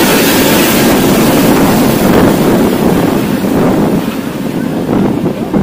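TEP70 diesel locomotive passing at close range with its engine running loud, the sound easing after about two seconds as the passenger coaches behind it roll by.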